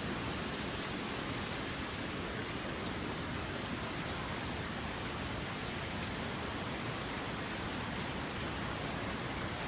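Steady rain falling during a thunderstorm, an even hiss of rain with a few faint drop ticks.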